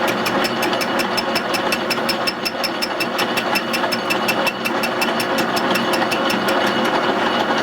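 Metal lathe running at a reduced speed, taking an interrupted cut on a connecting rod held offset in the chuck: a steady machine noise with a sharp tick about six times a second as the tool strikes the work once each turn.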